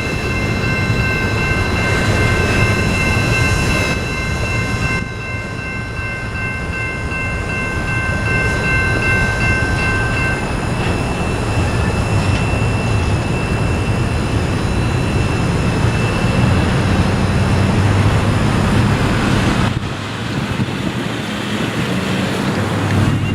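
Norfolk Southern freight train I38 rolling past: a steady rumble and clatter of wheels on rail. For about the first ten seconds a high, steady wheel squeal rides over it.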